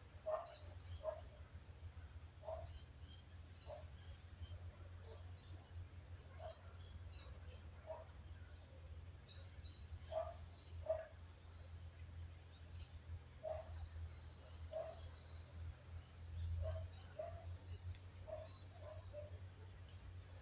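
Birds chirping in a forest: many short, high chirps from small birds, with a lower short call repeating every second or few, over a steady low hum.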